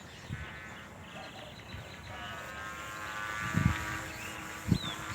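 Whine of a WLtoys V950 electric RC helicopter's motor and rotor, faint and wavering. Two dull thumps land in the second half, and a bird chirps near the end.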